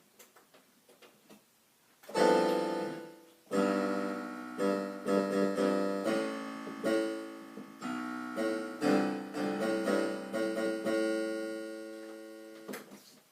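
Keyboard playing a short passage of chords, starting about two seconds in, with the last chord ringing out and fading near the end.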